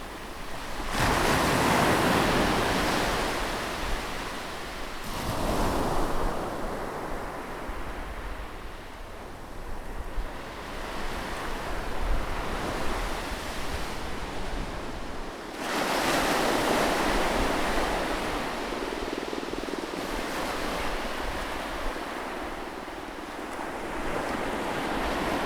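Ocean waves breaking and washing in, with a large surge about a second in, a smaller one around five seconds, and another large one about halfway through, the hiss of receding water between them.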